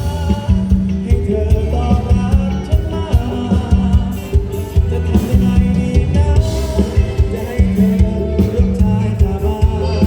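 Live luk thung band playing a song with a steady drum beat, a singer's voice over it.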